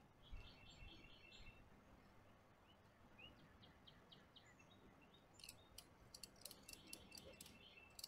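Faint birds chirping: a quick trill of high chirps about a second in, then scattered short chirps. In the last few seconds a run of faint, sharp, irregular clicks joins in.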